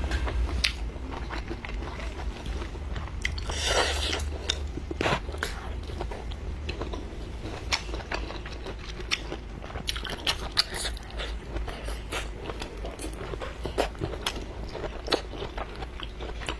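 A person eating close to the microphone: chewing and biting food, heard as many short, irregular mouth clicks, with a brief louder noisy burst about four seconds in. A steady low hum runs underneath.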